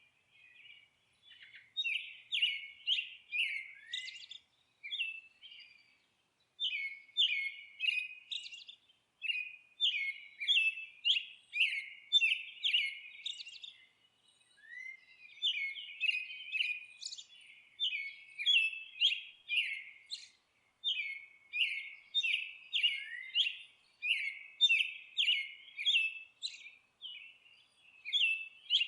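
A songbird singing: quick phrases of rapid, repeated high chirps, each burst lasting a second or two, with short pauses between.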